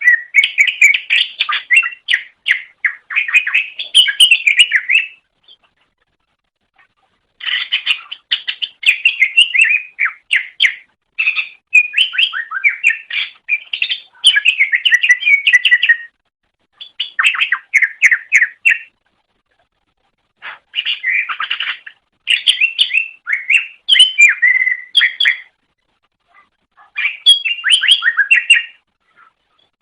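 Green leafbird (cucak ijo) singing in rapid, chattering phrases of quick varied notes, each phrase lasting a couple of seconds up to several seconds, with short pauses between them, about five phrases in all.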